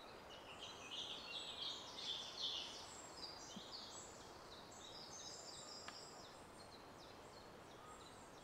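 Woodland birdsong: small birds chirping and singing in quick, high notes, busiest in the first three seconds, faint over a steady hiss.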